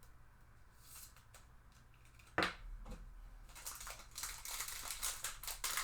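A sharp tap about two and a half seconds in, then busy crinkling and tearing of a foil trading-card pack wrapper being ripped open, growing denser toward the end.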